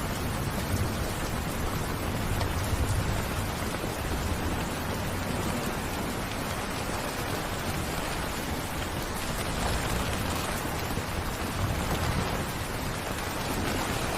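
Steady rain falling, an even hiss of drops, with a low rumble underneath that swells near the start and again near the end.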